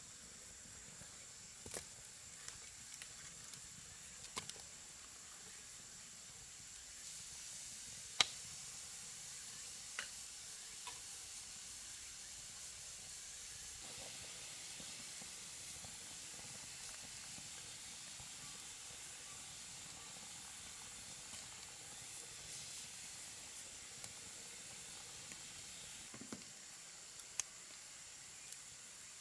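Wood campfire crackling: a soft steady hiss with scattered sharp pops, the loudest about eight seconds in.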